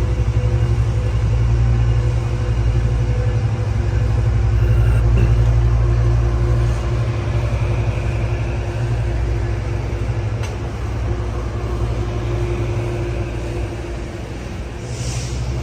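Diesel locomotive of a Metrolink commuter train running as the train departs the station: a deep, steady engine sound that slowly gets quieter.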